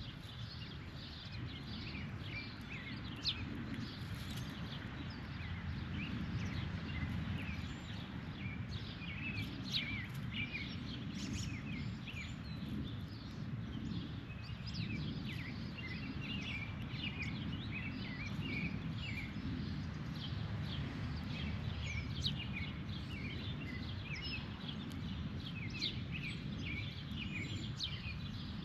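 Birds chirping outdoors, with many short calls coming in quick succession, over a steady low rumble.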